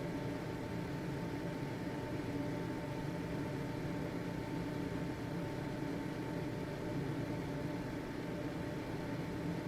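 Household ventilation fan running steadily: an even whoosh of air over a low motor hum, with a thin, steady whine above it.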